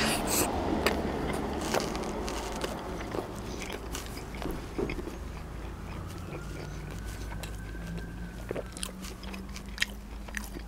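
Close-miked biting into a double bacon cheeseburger with lettuce, then chewing, with many small crisp clicks. A steady low hum runs underneath, and about six seconds in a faint background whine rises and falls again.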